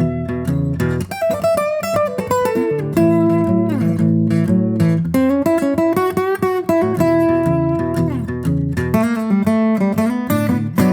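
Guitar music with quick plucked notes and chords over sustained low notes.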